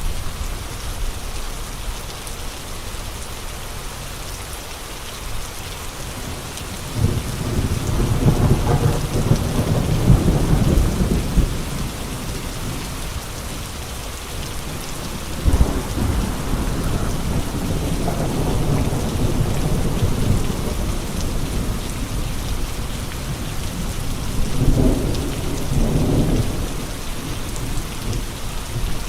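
Steady rain in a windstorm, a constant hiss, with deep rumbling swells: a long one about seven seconds in, a sudden one near the middle, and another near the end.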